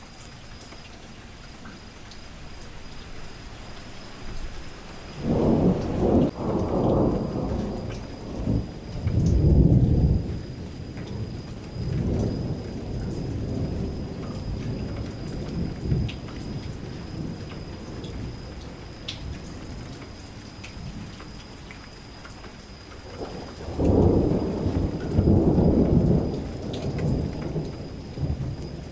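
Steady rain with rolling thunder. One long rumble starts about five seconds in and rolls on for several seconds, and a second rumble comes near the end.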